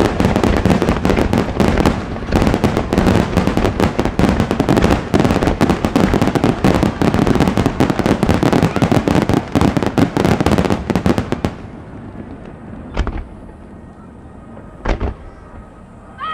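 Starmine fireworks barrage: a dense, rapid run of shell bursts and crackling that thins out after about eleven seconds, leaving two single booms near the end.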